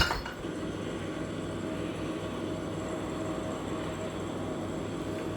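Heavy rain pouring down in a steady, even wash, with a faint steady hum beneath it.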